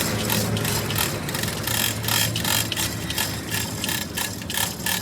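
Workshop tool work: quick, uneven metallic clicks and rattling, several a second, over a steady low hum.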